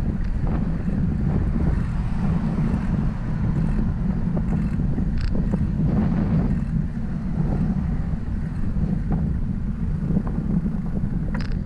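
Wind buffeting the microphone of a moving bicycle, a steady dense low rumble, with a couple of brief ticks about five seconds in and near the end.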